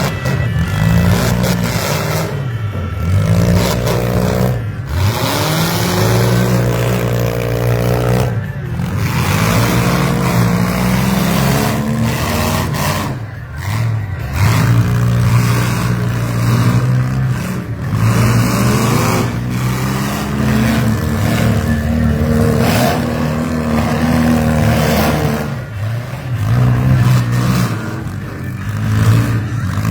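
Several demolition-derby vans, SUVs and mini trucks with their engines running and revving up and down at once, the pitch repeatedly climbing and dropping as the drivers accelerate and back off.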